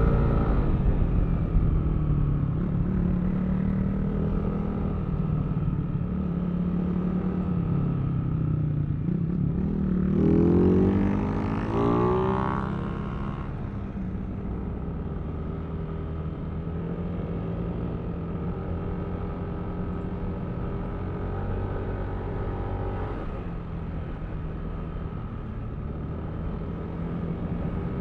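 Yamaha Aerox V3 scooter's single-cylinder engine running under way, with road noise. About ten seconds in the engine note rises briefly, then settles into a steadier, slightly quieter cruise.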